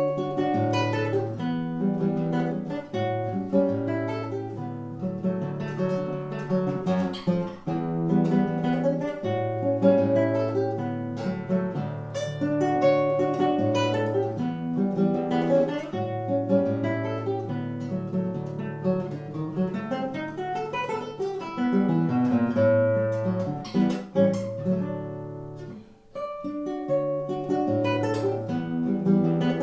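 Acoustic guitar playing a choro-style instrumental, a bass line moving under a plucked melody, with a short break about 26 seconds in before it resumes.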